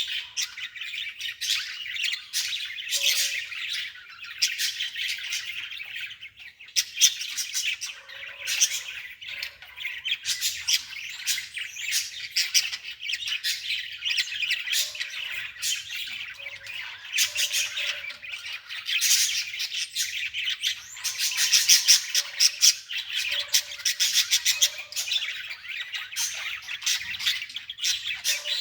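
Birds chirping and squawking in a dense, continuous chatter of quick high calls.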